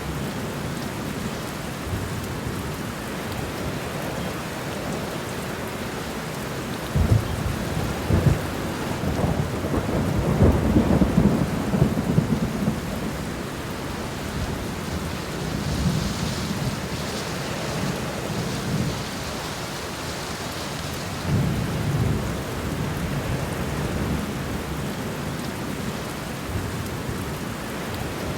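Steady rain with thunder rumbling, the rumble swelling about a quarter of the way in and again about three quarters through.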